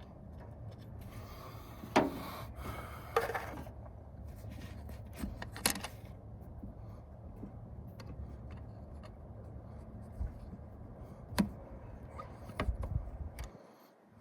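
Hand work with small metal parts and tools, most likely fitting a choke cable: scattered sharp clicks and taps with brief scraping and rustling, over a steady low hum.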